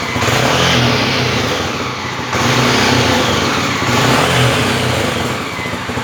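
Honda XR 250 Tornado's single-cylinder four-stroke engine being revved in place, blipped up and eased back several times without being taken to high revs.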